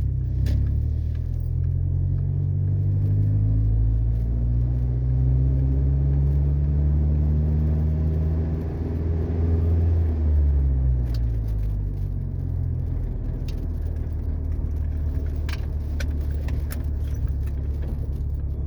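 Ford Ranger pickup's engine pulling under way, its pitch rising steadily for about eight seconds, then falling about halfway through as the manual gearbox is shifted, and running steadily after that. Light clicks and rattles from the cab.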